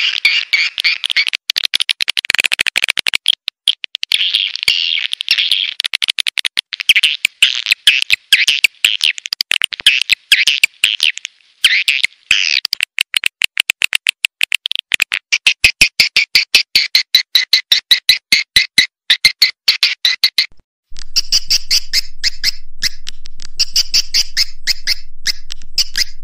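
Recorded swiftlet calls: a dense, rapid twittering of chirps and clicks, the kind of call track played to lure swiftlets into nesting houses. About 20 seconds in, the track breaks off and a new section of calls begins over a faint low hum.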